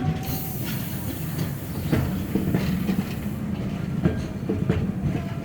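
Vintage electric tram of the Sóller tramway running along its track: a steady low rumble with irregular clicks and knocks.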